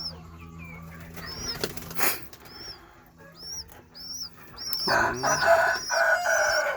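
Pigeons flapping their wings, loudest in a long flurry from about five seconds in, over a high chirp that repeats about twice a second.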